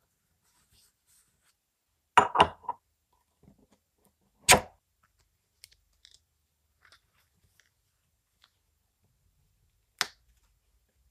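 Parts and tools being handled: a quick cluster of clicks and knocks about two seconds in, one sharp knock a couple of seconds later, and another near the end, with faint ticks between.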